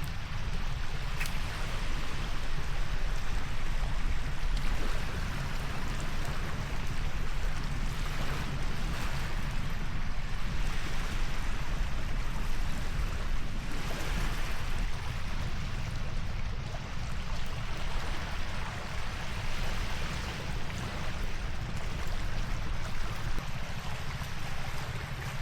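Steady rushing water noise with a deep low rumble underneath, broken by a few faint clicks.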